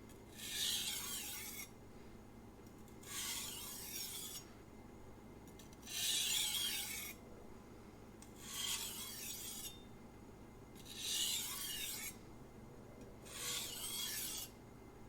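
Knife blade drawn across a Shapton Glass 500-grit whetstone in six separate scraping strokes, each about a second long with a pause between. These are light, alternating-side strokes at almost only the knife's own weight, the last stage of setting a microbevel and removing the final trace of burr.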